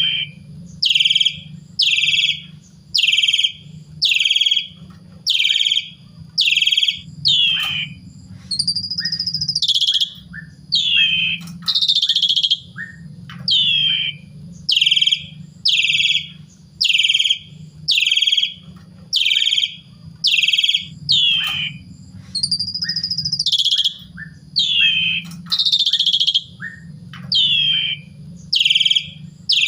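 Asian pied starling (jalak suren) singing: a long run of loud, short downward-sweeping whistled notes about one a second, broken by a few longer arched notes. A steady low hum runs underneath.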